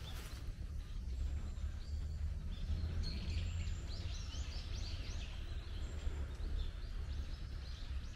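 Small birds chirping: a quick run of short, high calls from about three seconds in until near the end, over a steady low rumble.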